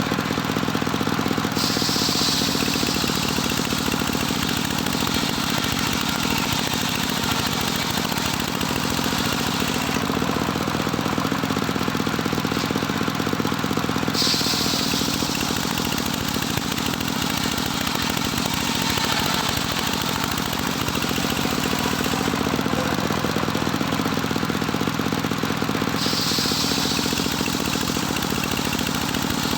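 Engine-driven homemade circular sawbench running steadily, with the high hiss of the blade cutting through wood three times, each cut lasting several seconds.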